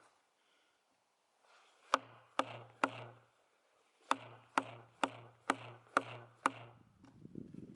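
Light, evenly spaced blows on a steel tool set in the split of an oak log, driving the crack along: three sharp ringing strikes, a short pause, then six more about two a second, followed by a scraping rustle near the end.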